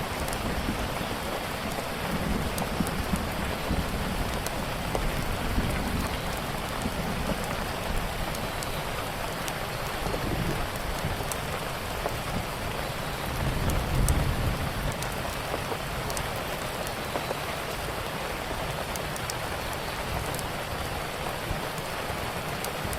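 Steady rain falling, with scattered small sharp ticks and a few low rumbling swells, the strongest about fourteen seconds in.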